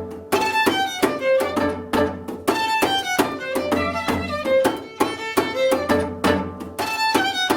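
Gayageum (Korean plucked zither) playing a fast repeating melodic figure that comes round about once a second, over a low pulsing bass, in contemporary Korean instrumental music.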